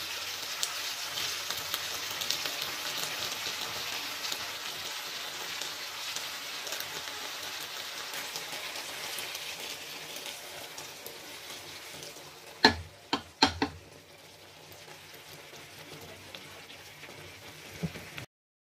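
Potato chunks and vegetables sizzling and crackling in a frying pan, the sizzle slowly dying down. A little after halfway come three sharp knocks in quick succession, and the sound cuts off suddenly near the end.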